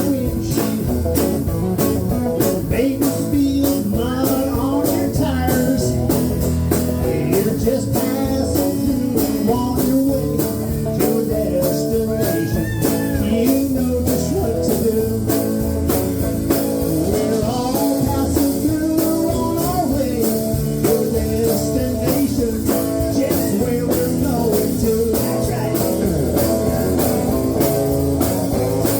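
Country-rock band playing an instrumental break: lead guitar with bending notes over a steady drum beat and bass.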